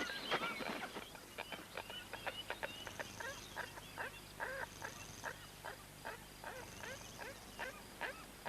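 Secretary bird chick calling: a rapid series of short, harsh begging calls, loudest at the start and growing sparser and fainter. A faint high buzz comes and goes every second or two in the background.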